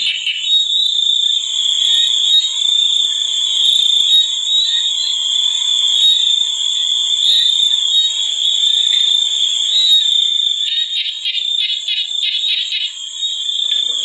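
Night chorus of insects and frogs: a steady, high-pitched insect trill, with a rapid pulsing call joining in near the end.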